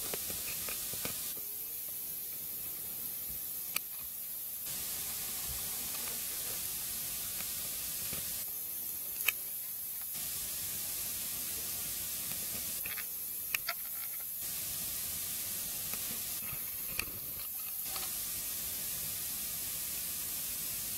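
Dry wood burning in a fireplace: a steady hiss with a few sharp crackling pops, the loudest about nine seconds in and two close together around thirteen seconds.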